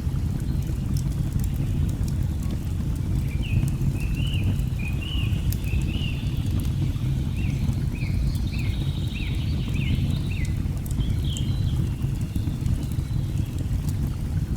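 Steady low rush of a waterfall, with the light pops and crackles of a log fire. A bird chirps a quick series of short notes from about three seconds in until about two-thirds of the way through.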